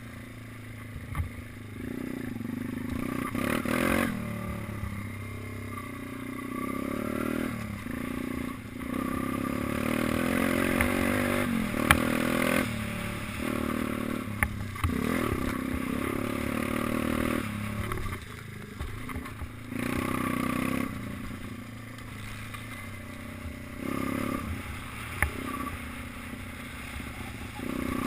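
Minibike engine revving up under throttle and dropping off sharply every few seconds as it is ridden round the track, with a few sharp knocks and rattles.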